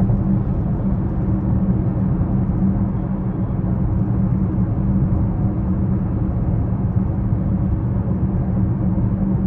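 2020 BMW X6 40i driving at a steady pace: its turbocharged 3.0-litre straight-six and its tyres make an even low rumble with a steady hum.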